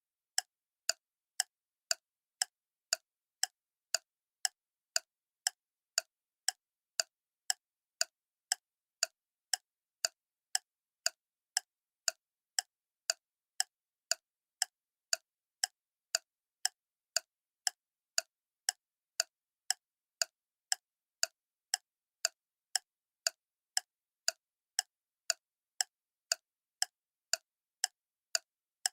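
Clock ticking steadily: sharp, evenly spaced ticks, a little under two a second, with silence between them.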